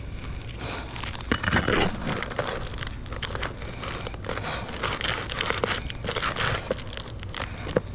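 Roof shingle crackling and crinkling as it is worked and pried to get at a nail, in irregular bursts, loudest about a second and a half in, with a sharp click near the end.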